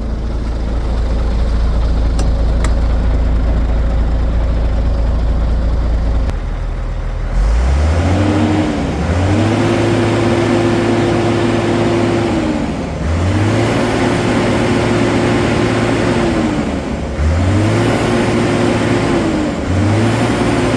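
Renault Magnum AE 420 truck's diesel engine idling steadily, then revved five times, each rev rising, holding for a couple of seconds and dropping back to idle; the first rev is brief.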